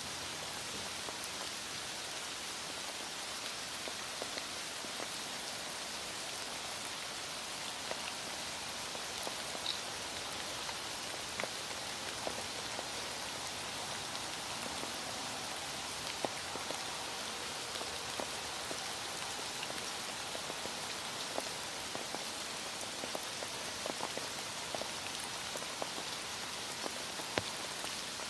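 Heavy rain falling steadily, a dense even hiss with scattered individual drops ticking on a surface.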